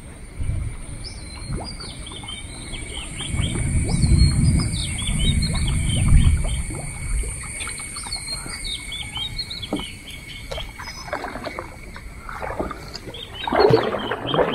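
Small birds chirping and calling over and over, with a faint steady high-pitched whine underneath. A low rumble swells for a few seconds about three seconds in.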